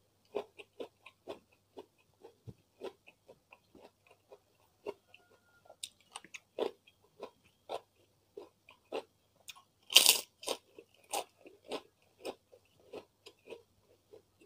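Close-miked eating: irregular crunchy chewing and biting clicks, a few a second, with one loud crackling crunch about ten seconds in from a large white fried cracker (krupuk).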